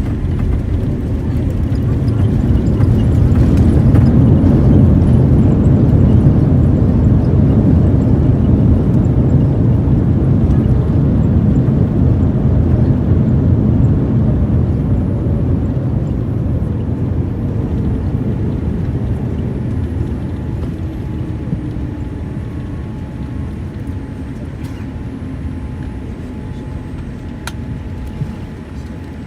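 Jet airliner engines roaring in reverse thrust on the landing rollout. The rumble swells over the first few seconds, then fades slowly as the engines spool down, with a whine that falls steadily in pitch.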